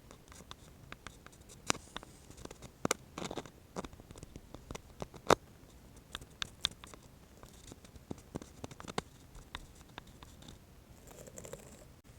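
Sparse, irregular small clicks and taps from an ASMR spatula and penlight being handled close to the microphone, with a brief soft rustle near the end.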